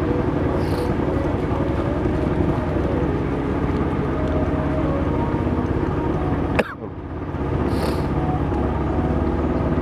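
A small boat's motor running steadily. About two-thirds of the way through it drops away suddenly, then builds back up within a second.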